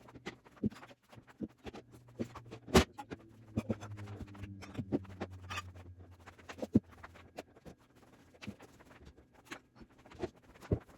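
Food containers, jars and bottles being taken out of a refrigerator and set down on a table: a run of irregular clicks and knocks, the sharpest about 3 s and 7 s in. A low hum sounds under them and fades out about 7 s in.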